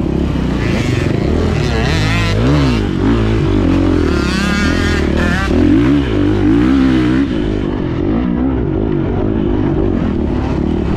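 2024 Beta 430 Race Edition's single-cylinder four-stroke dirt-bike engine being ridden hard, its pitch rising and falling again and again as the throttle is opened and shut.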